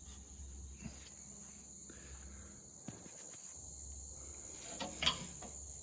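Crickets trilling as a steady high-pitched background, with a few faint clicks and knocks, the loudest about five seconds in.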